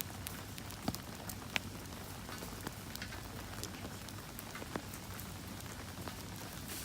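Steady rain falling, with sharp crackles and pops from a wood campfire scattered through it; two louder pops come about a second and a second and a half in.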